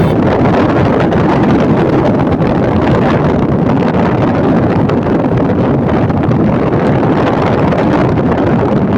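Strong wind rushing over the microphone in a loud, steady roar with no breaks, as on a moving motorcycle.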